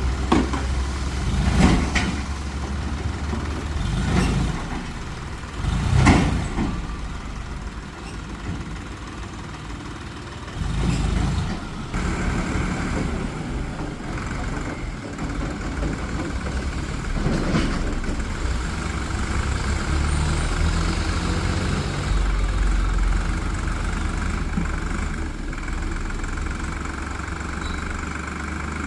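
Tractor engine running steadily, with several brief louder surges in the first dozen seconds.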